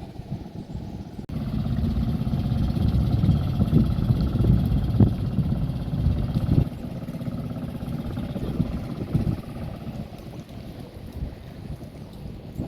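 A boat's engine runs with a low, steady rumble, louder for about five seconds and then easing off. Wind buffets the microphone.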